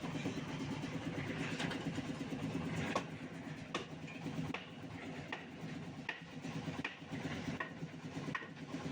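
An engine running steadily at idle, with footsteps at an even walking pace, each step a short sharp tap, heard over it.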